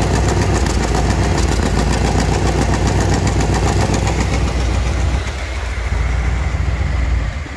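1980 Chevrolet Corvette's small-block V8 idling steadily, heard up close at the engine, with a fast, even ticking over the low rumble. It gets somewhat quieter toward the end.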